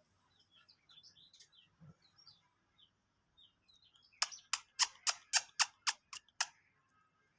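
Chicks peeping faintly in short high chirps, then nine sharp, loud knocks in quick succession, about four a second.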